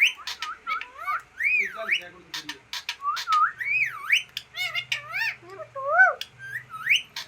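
Green parrot whistling and chattering: a run of whistles that swoop up and down in pitch, mixed with quick sharp clicks.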